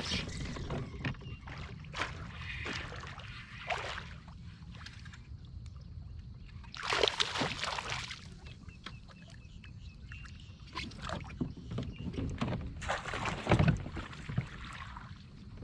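Water splashing in bursts as a hooked bass is fought up to a fishing kayak, the loudest splashes about halfway through and again near the end, over a low steady rumble.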